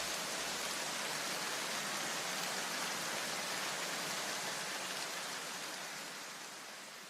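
A steady, even hiss that fades away over the last couple of seconds.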